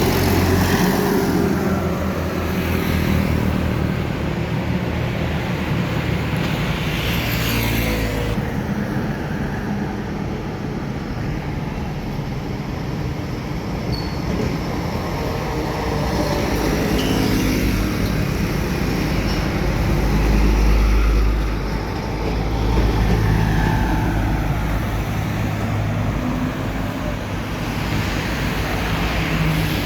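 Road traffic passing, trucks among it, engines running steadily. A vehicle sweeps past at about a quarter of the way in, and a heavy engine grows loud and deep about two-thirds through.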